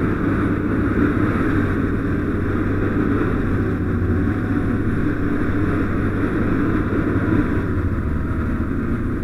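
Fire engine driving on a response run: a steady engine and road drone, without siren.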